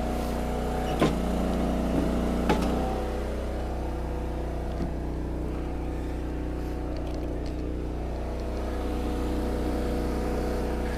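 Engine of an Eastonmade 22-28 hydraulic log splitter running steadily. Three sharp knocks come in the first few seconds, about a second in, at two seconds and just after.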